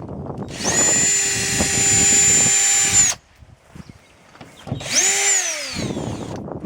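Power drill run in two bursts, backing screws out of a wall's sheathing: a steady high whine for a couple of seconds that cuts off suddenly, then a shorter burst about five seconds in that winds down with falling pitch.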